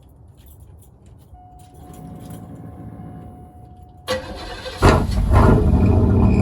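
Cadillac 4.9 L V8 with the exhaust removed being started: a brief crank about four seconds in, then the engine catches under a second later and settles into a loud, steady open-exhaust idle. Before that, key and ignition sounds with a faint steady tone.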